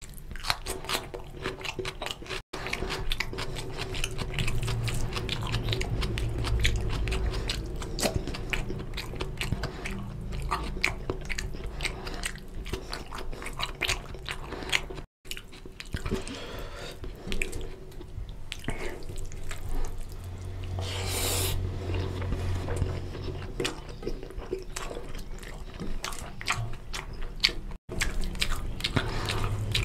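Close-up wet chewing and smacking of a man eating oily mutton and goat intestine curry with rice, with the squish of his fingers mixing rice and curry on a steel plate. The sound drops out briefly three times at cuts.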